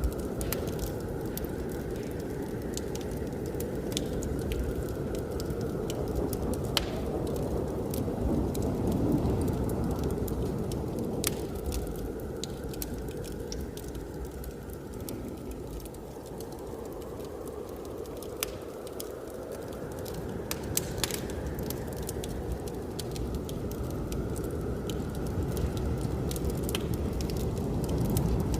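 Wood fire crackling in a fireplace, with frequent sharp pops, over the steady rumble of blizzard wind. The wind swells and fades slowly in gusts.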